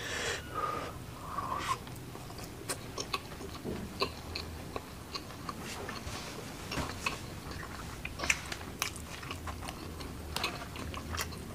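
Close-up eating sounds: chewing and wet mouth smacks as fried mackerel with rice and chili sambal is eaten by hand, heard as scattered sharp clicks, with fingers squeezing the rice.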